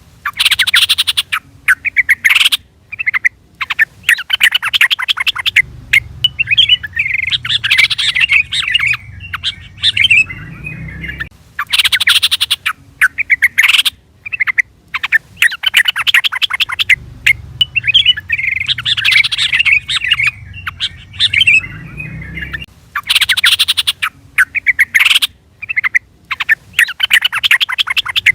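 Yellow-vented bulbul (trucukan) calling: bursts of rapid, chattering notes alternating with bubbly warbled phrases, in a sequence that repeats about every 11 seconds.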